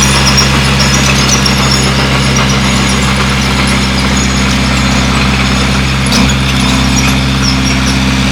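Bulldozer's diesel engine running steadily, with a brief knock about six seconds in.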